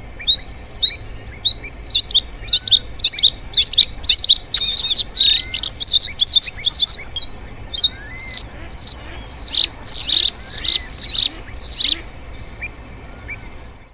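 Birds chirping: a quick run of short, high chirps, several a second, loudest and busiest about two-thirds of the way through, then thinning out.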